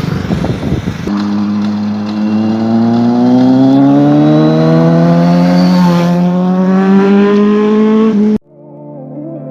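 High-performance vehicle engine accelerating hard, its pitch rising steadily for about seven seconds after a second of passing traffic noise. It cuts off suddenly near the end, and background music starts.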